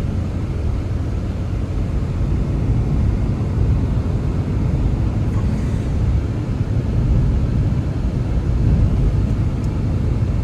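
Blizzard wind blowing hard: a steady, deep rumbling rush that swells and eases slightly.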